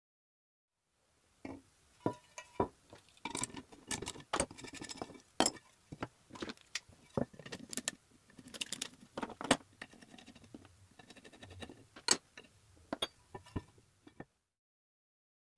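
Small metal parts clinking and tapping as they are handled, a quick irregular series of bright clicks, some of them ringing briefly.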